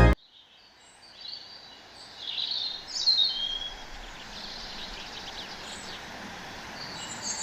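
Small birds chirping over a faint steady hiss of outdoor ambience, with a cluster of quick calls from about one to three seconds in.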